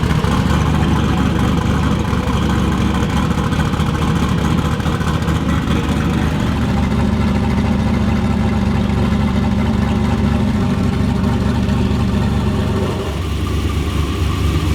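Turbocharged LS V8 idling with a lumpy cam through a freshly built stainless exhaust with its cutout valve open. About thirteen seconds in, the tone changes and gets slightly quieter as the exhaust valve is closed, sending the exhaust through the mufflers.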